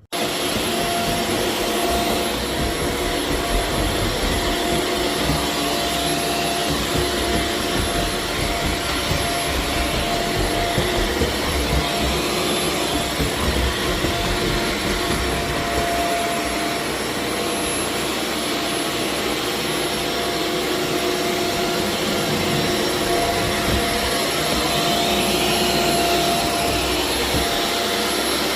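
A floor-cleaning machine's motor running steadily: a loud rushing hiss with a steady high whine, starting suddenly and holding at an even level.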